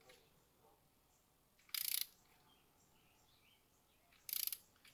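A ratchet wrench clicking in two short bursts, about two and a half seconds apart, as an intake manifold bolt on a 3.6L V6 is run down in the tightening sequence.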